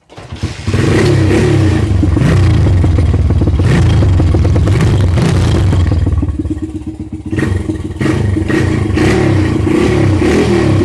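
A 100cc dirt bike engine running through its stock exhaust with the baffle still in, revved up and down; it eases off for about a second around the middle, then revs again.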